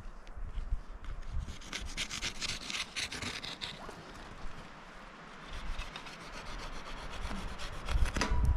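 Camp wood stove and its sheet-metal pipe being handled and fitted: a run of quick rasping scrapes, then quieter scraping and a heavy thump near the end.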